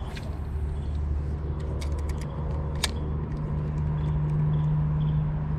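Low, steady drone of a vehicle engine, its pitch stepping up about three seconds in, with a few scattered sharp clicks.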